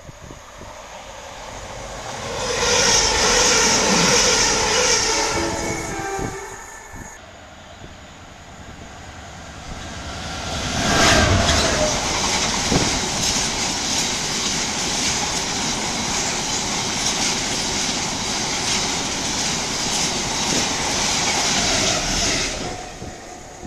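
Diesel-hauled freight train passing through the station: about two seconds in a horn sounds for around three seconds, then from about ten seconds in the long rake of open box wagons runs by with a steady rumble and rapid clicking of wheels over the rail joints, cutting off near the end.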